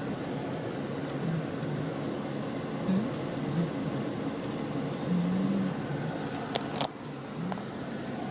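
Steady road and engine noise inside a moving car's cabin, with two sharp clicks about six and a half seconds in.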